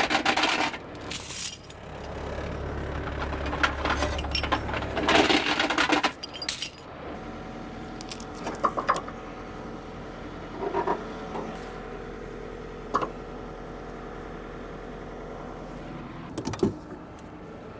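Scattered metallic clinks and rattles, busiest in the first six seconds, over a steady low engine hum.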